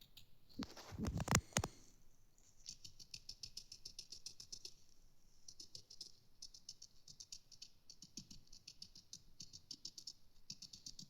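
Paint sponge dabbing gold enamel onto painted foam-plastic mouldings: runs of rapid, light ticking dabs a couple of seconds long with short pauses between them. A few louder handling knocks come about a second in.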